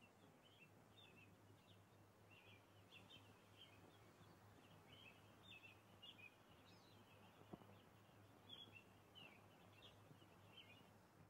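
Faint birdsong: quick chirps and twitters from small birds, over a steady low hum. There is one soft click partway through.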